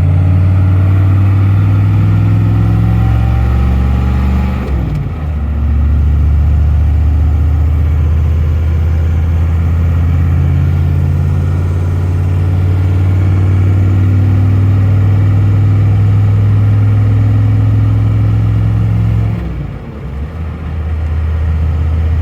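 GMC Sierra's 6.5-litre turbo-diesel V8 running. Its note dips briefly about five seconds in and again near the end, then picks back up.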